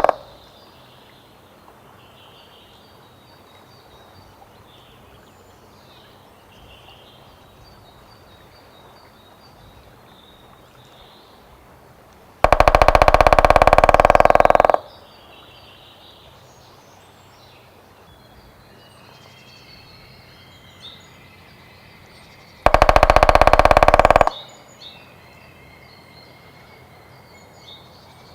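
White-backed woodpecker drumming: two long rolls of very rapid strokes, about two seconds each and roughly ten seconds apart, speeding up toward the end. Faint songs of other birds in between.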